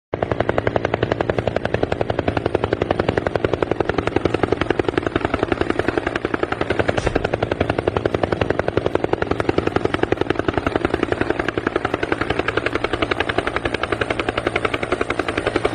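Helicopter rotor sound with a steady, fast, even chopping beat.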